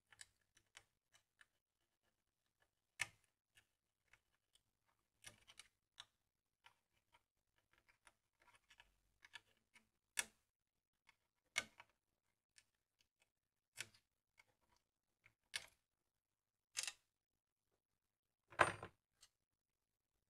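Scattered sharp clicks and taps of small hand tools and parts being handled while power transistors are removed from a radio's output stage, about a dozen spaced irregularly, the loudest a short clatter near the end.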